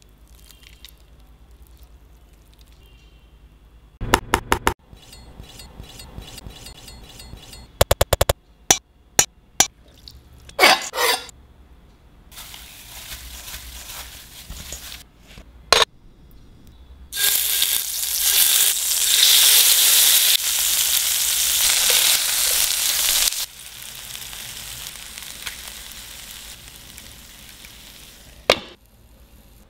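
Kitchen clatter of quick clicks and knocks, then food sizzling loudly in a hot pan from about 17 seconds in, easing to a softer, steady sizzle after about 23 seconds.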